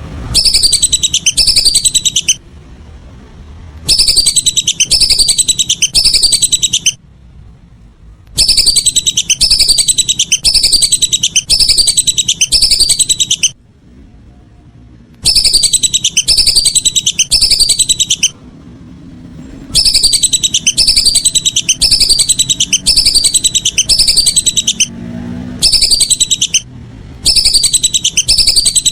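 Whistling duck (belibis) calls: loud runs of rapid, high whistled notes, each falling in pitch, coming in bursts of a few seconds with pauses of one to two seconds between. The bursts repeat near-identically, as a looped call recording used to lure the ducks.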